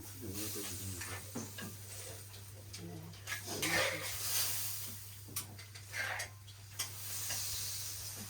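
Food sizzling in a pan while being stirred, with scraping and clinks. Faint voices are heard in the background.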